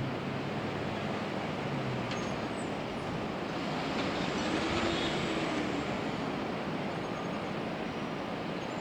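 Steady city traffic noise from the streets below, swelling about halfway through as a passing vehicle's engine tone rises and falls.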